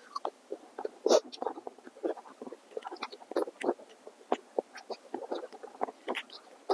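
Close-miked eating sounds: irregular wet chewing, lip smacks and mouth clicks, several a second.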